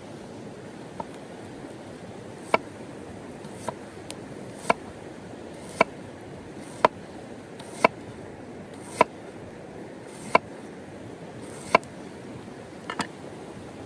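Steady chopping: about ten sharp strikes, roughly one a second, each with a short ring, over a steady rushing background.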